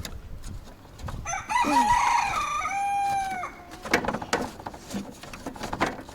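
A rooster crowing once, a long call that rises, holds for about two seconds and falls away. Afterwards come a few sharp clicks and knocks.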